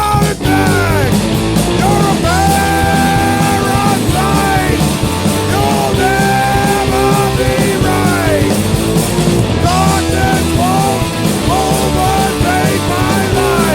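Skinhead rock 'n' roll (oi/punk) band playing a loud full-band passage, a melody of held notes that bend up and down over a dense, driving backing.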